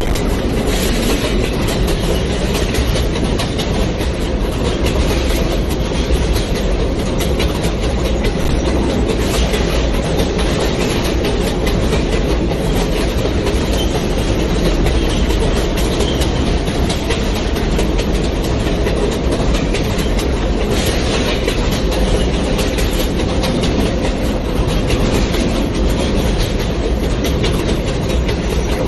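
New York City Subway J train running at speed between stations: a steady, loud rumble of the wheels on the rails and the car's running gear, with a faint steady hum.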